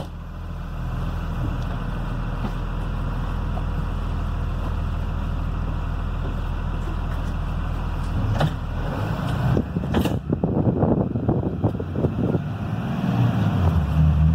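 Blue Bird Vision school bus's Cummins B6.7 diesel running steadily while driving. About two-thirds of the way through, a knock and a run of rattles and knocks come in, and near the end the engine note rises as it pulls.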